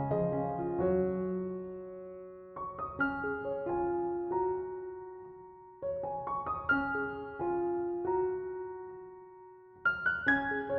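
Soft piano music: a few notes struck together about every three seconds, each group left to ring and fade before the next.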